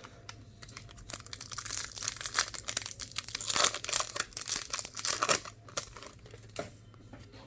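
Foil wrapper of a Topps Gallery baseball card pack crinkling and tearing as it is opened, with a dense run of crackles in the middle and quieter rustling toward the end.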